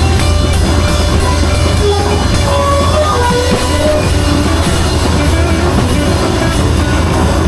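Live band improvising rock music: a drum kit and guitar over a heavy, steady low end, with a melodic line wandering up and down in the middle range.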